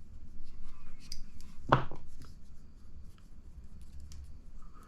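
Small clicks and light rubbing of hand tools and small parts, with one louder knock about two seconds in: a hex driver running a set screw in to hold the hinge pin of an RC buggy front suspension arm.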